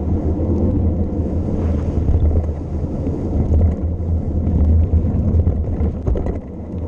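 Wind buffeting the bike-mounted microphone during a fast mountain-bike descent: a steady, loud, rough low rumble with faint ticks from the tyres and bike.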